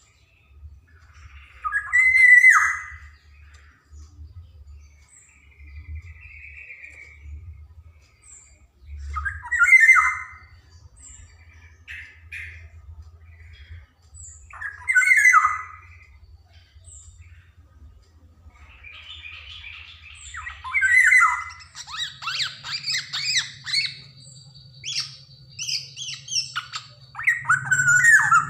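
Black-naped oriole (kepodang) calling: loud, harsh calls about a second long, repeated every five or six seconds. From about three-quarters of the way in comes a busier run of quicker, higher chattering notes, over a faint low hum.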